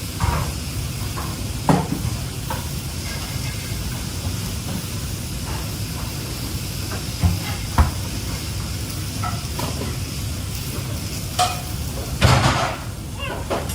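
Food frying in a pan with a steady low rumble underneath, broken by a few sharp knocks and scrapes of a utensil stirring against the pan, the loudest cluster about twelve seconds in.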